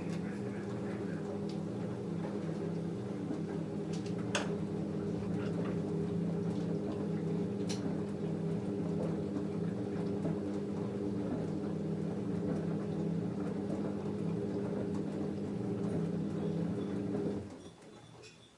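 LG F10A8HDS5 front-loading washing machine running mid-cycle with a steady hum and a couple of sharp clicks, then cutting off suddenly near the end.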